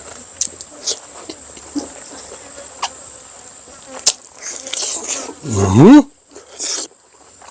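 Eating sounds: chewing with scattered wet mouth clicks and smacks. About five and a half seconds in comes the loudest sound, a short pitched vocal sound that rises, like a hum. A thin steady high whine runs underneath.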